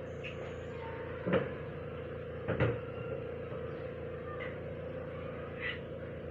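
Two sharp knocks about a second and a quarter apart, with a fainter one later, over a steady background hum.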